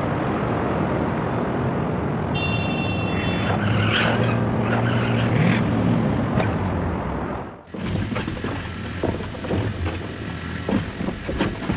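Steady rushing noise of a rain-swollen river torrent with a low engine hum in it. About three-quarters of the way through it cuts off abruptly and is followed by scattered knocks and clatter.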